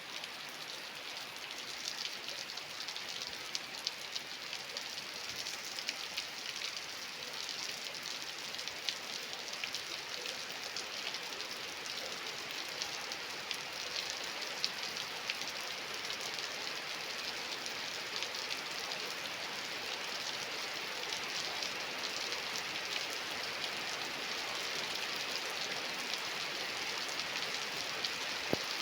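Steady rain falling, a constant hiss dotted with the sharp ticks of individual drops striking a surface.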